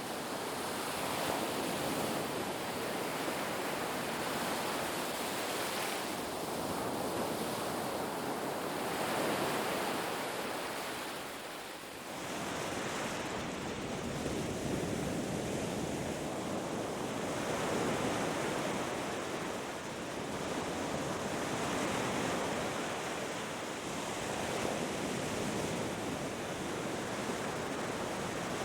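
Ocean surf washing onto a beach: a continuous rush of breaking waves that swells and ebbs every few seconds.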